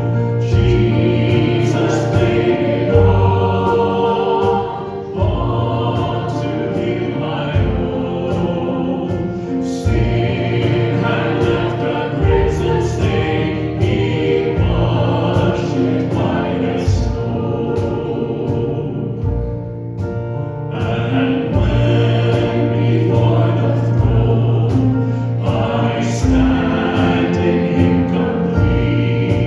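A congregation singing a hymn together, with instrumental accompaniment under the voices.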